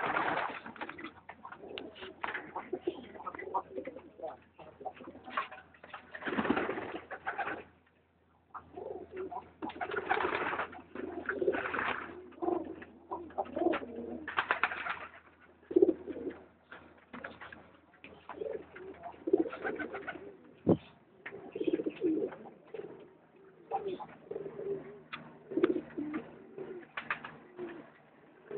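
Many domestic pigeons cooing over one another, with several louder rustling stretches and a single sharp knock about two-thirds of the way through.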